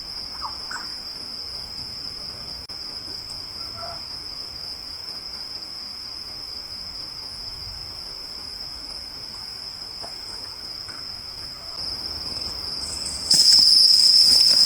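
Crickets and other insects singing as a continuous high-pitched chorus. It becomes much louder a little over a second before the end.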